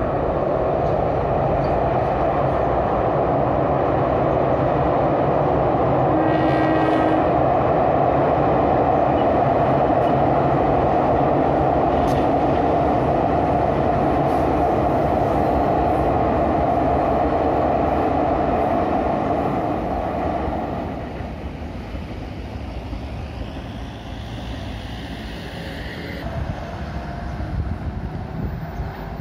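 Passenger train passing over a railway bridge: a loud steady rumble of the coaches' wheels on the rails for about twenty seconds, with a brief pitched tone about six seconds in. The rumble fades about two-thirds of the way through, leaving quieter road traffic with an engine rising in pitch near the end.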